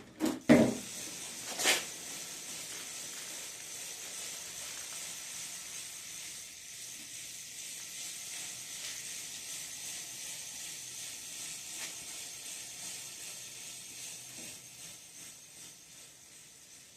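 A steady hiss of an aerosol lubricant being sprayed onto a bicycle's chain and front sprocket, lasting over ten seconds before it fades away, with a couple of knocks at the start.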